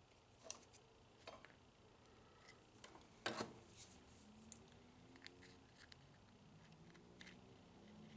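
Near silence broken by a few small, sharp clicks and light scrapes, the loudest about three seconds in: small vending-machine gearbox gears and parts being handled while the gearbox is re-greased.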